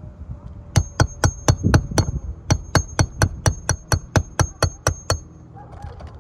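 A hammer driving roofing nails into shingles with quick, even blows, about four a second, each with a high metallic ring. There is a short pause after the first six or so strikes.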